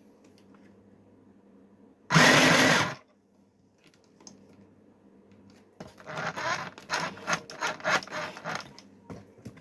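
Mini sewing machine's motor running in one short burst of under a second. A few seconds later comes a stretch of irregular rustling with many short clicks.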